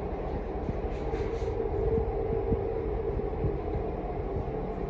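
A steady machine hum over a low rumble, with a few soft knocks of handling.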